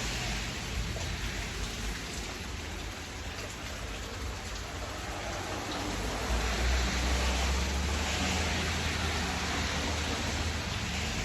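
Steady rain falling, with a low rumble swelling up about halfway through.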